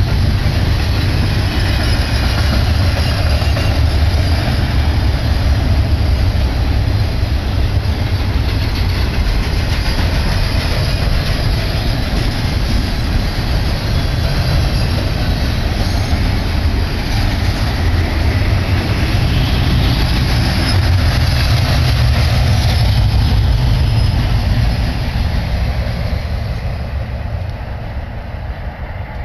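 Double-stack container train's well cars rolling past: a steady rumble and clatter of steel wheels on rail, fading over the last few seconds as the end of the train goes by and away.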